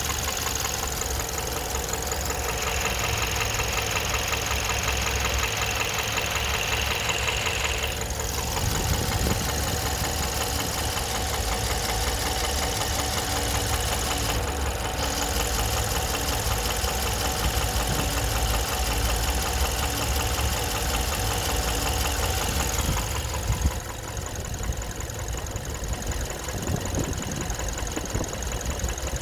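Suzuki J24B 2.4-litre four-cylinder engine running with a persistent knock. The cause is unknown even after a new timing chain, VVT coupler, valves, main bearings and piston rings; the owner suspects the camshafts. About three quarters of the way through, the sound becomes quieter and duller.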